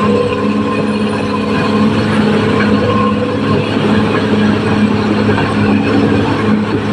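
Caterpillar D6R XL bulldozer's diesel engine running steadily, loud and unchanging.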